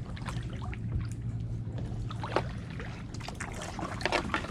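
Kayak paddle strokes: water splashing and dripping off the blades in short irregular bursts, with light knocks, over a steady low hum.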